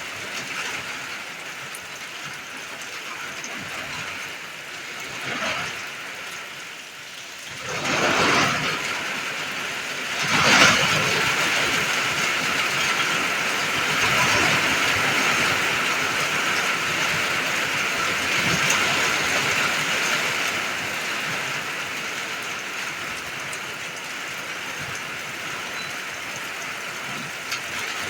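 Rain falling steadily, swelling twice about eight and ten seconds in and then staying heavier.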